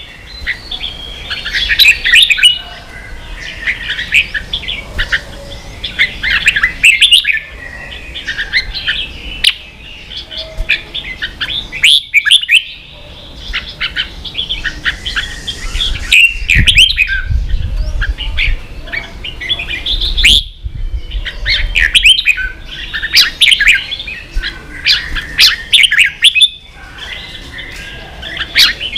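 Red-whiskered bulbul singing loud, fast chirping song phrases over and over, each burst broken by a short pause.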